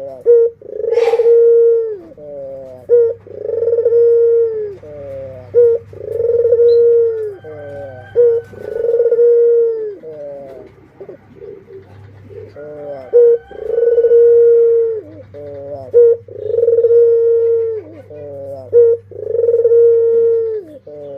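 Barbary doves (burung puter) cooing: a long, steady, low coo repeated every second and a half or so, with short quick notes between the coos. There is a single sharp click about a second in.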